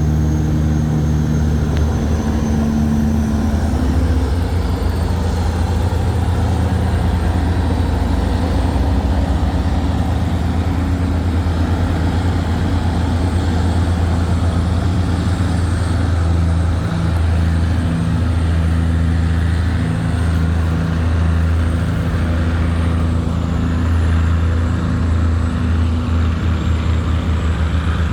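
Tugboat's diesel engine running steadily while towing loaded cargo barges upstream, a deep, even drone.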